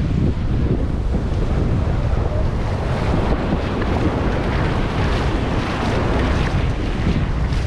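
Wind buffeting the microphone over the steady wash of ocean surf breaking on a beach; the surf swells up briefly about halfway through.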